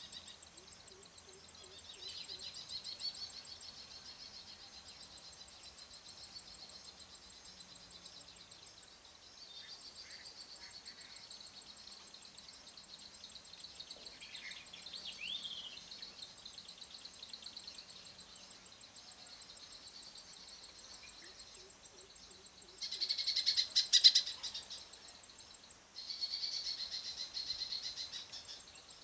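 Baya weavers chattering, a continuous high, buzzy, fast-ticking twitter that swells into a louder burst about two thirds of the way in and again shortly after.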